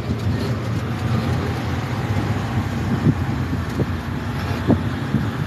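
Tourist road train running, heard from on board: a steady low engine and road rumble, with a few short knocks from the carriage.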